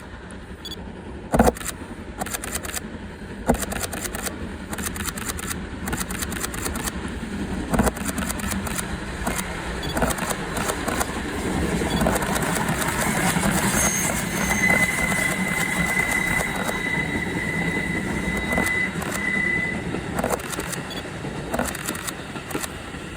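D51 200 steam locomotive running with its train, the sound building to a peak around the middle and easing off toward the end. A few sharp knocks come in the first eight seconds, and a thin, steady high tone sounds for about five seconds just past the middle.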